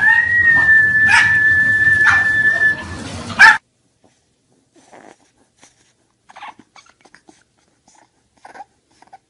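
A dog whining: one long, high, steady whine lasting about three seconds, with a few short yelps over it, cut off suddenly. After that come only faint, short, scattered whimpers.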